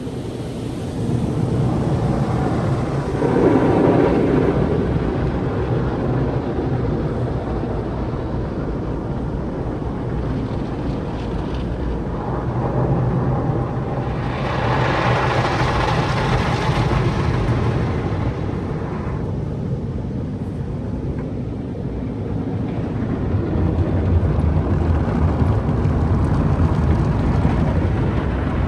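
MacNeil tunnel car wash equipment running over a car: water spray and brushes with a steady low rumble, swelling louder about four seconds in and again from about fourteen to nineteen seconds.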